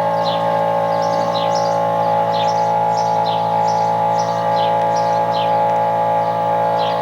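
Steady drone of barn machinery, several fixed tones held without change, with a bird chirping over it in short falling notes about twice a second.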